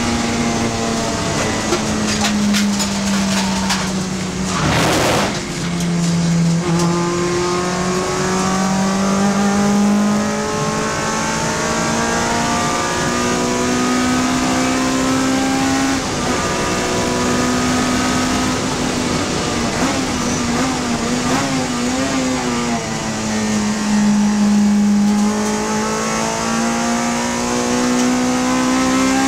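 Honda Civic FD2 race car's four-cylinder engine running hard at high revs. Its pitch climbs steadily and drops several times as it shifts and slows. A short noisy burst comes about five seconds in.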